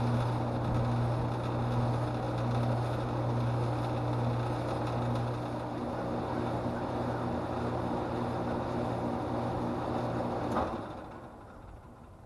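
2003 Lennox Elite Series heat pump outdoor unit running in heat mode: steady compressor hum under the outdoor fan's rushing. About ten seconds in it shuts down with a sharp click, the hum cuts off, and the fan noise fades away over about a second.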